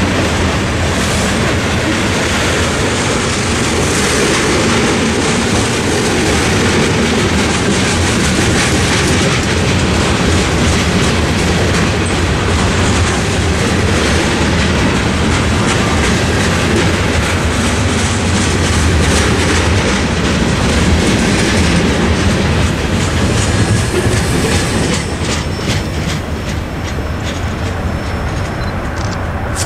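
Covered hopper cars of a freight train rolling through a grade crossing, the wheels clicking over the rail joints. About 25 seconds in, the last car passes and the train noise drops, leaving the crossing's Safetran mechanical bell ringing in steady strokes.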